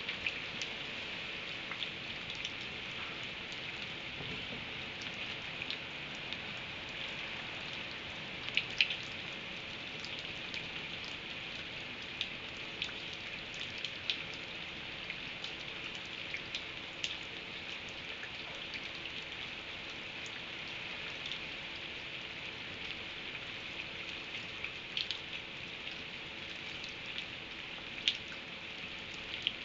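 Steady rain falling, heard as a constant hiss. Scattered sharper ticks of drops strike a surface, a couple of them louder, about nine seconds in and near the end.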